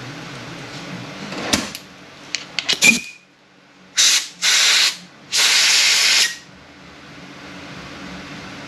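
A few sharp metal clicks of tools being handled on a transmission bench, then three hissing bursts of pressurized spray, the last about a second long.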